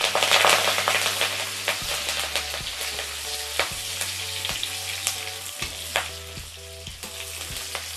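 Crushed garlic, curry leaves and sun-dried buttermilk chillies sizzling in hot coconut oil in an iron kadai, stirred with a wooden spatula, with occasional clicks. The sizzle is loudest at first and eases a little toward the end as the garlic fries toward browning.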